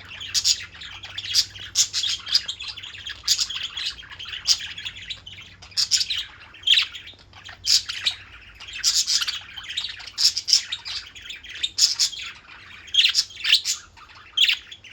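Pet parakeets chirping and chattering: a busy, unbroken run of short high chirps, with louder calls standing out every second or so.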